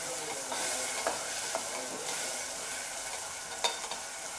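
Chopped tomatoes, onions and green chillies sizzling in hot oil in a metal pot while a metal ladle stirs them, with a few sharp knocks of the ladle against the pot, one about a second in and one near the end.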